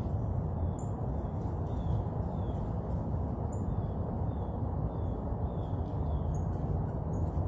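Small birds calling repeatedly, short high chirps alternating with brief falling notes, over a steady low outdoor rumble.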